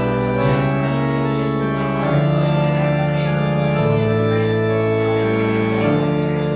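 An organ playing held chords, the chord changing every second or two.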